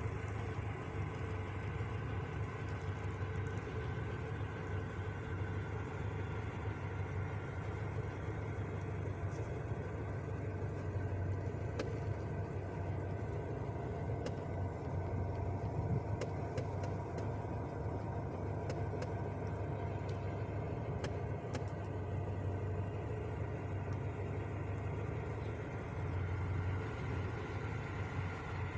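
GAZ-3110 Volga's ZMZ-402 carburetted inline-four petrol engine idling steadily.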